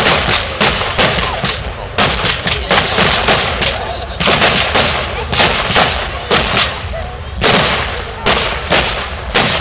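Fireworks display: a rapid, unbroken run of sharp bangs, about three a second, with crackling between them.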